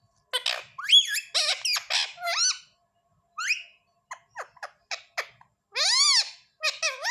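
Pet parrot squawking and chirping in high-pitched calls that rise and fall in pitch. A quick run of calls comes in the first two and a half seconds, short chirps follow, and a couple of long arched calls come near the end.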